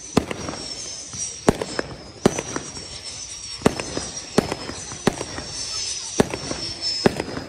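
Fireworks display: about a dozen sharp bangs at irregular intervals, about one every half second to second, over a continuous crackle, with a thin high whistle sounding underneath.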